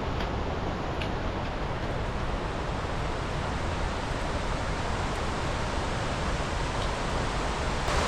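Steady rushing roar of a waterfall and river cascade, an even wash of noise with no rhythm or change.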